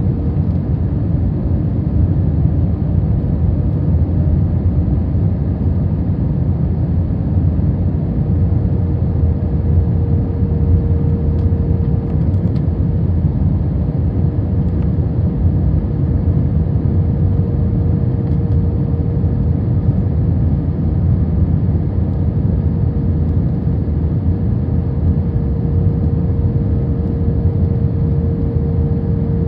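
Steady cabin roar inside an Airbus A321 on final approach with flaps extended: engine and airflow noise, heavy in the low rumble, with a steady hum tone running through it.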